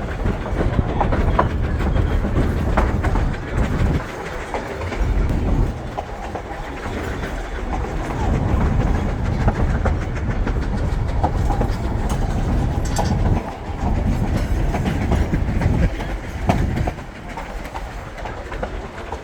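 Durango & Silverton narrow-gauge train rolling along the track: a steady low rumble with irregular wheel-on-rail clicks and knocks, easing a little near the end.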